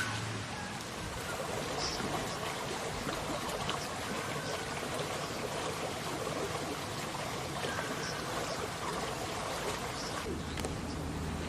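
Running water flowing steadily, like a stream or irrigation channel.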